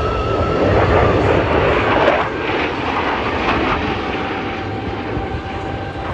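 Jet engine noise of a Thunderbirds F-16 fighter flying past: a loud rushing roar that swells about one to two seconds in, then slowly eases off.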